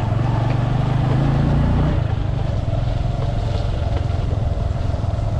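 Motorcycle engine running while the bike is ridden along the road. Its steady low note changes and roughens about two seconds in.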